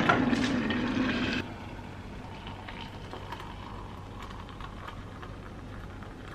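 Water boiling hard in a kettle, a loud rumble that stops abruptly about a second and a half in, leaving only a faint steady hum.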